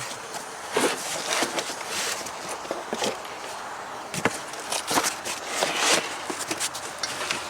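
Irregular knocks and clatter, loosely spaced, with the loudest hits about a second in, around three seconds, and again around five to six seconds in.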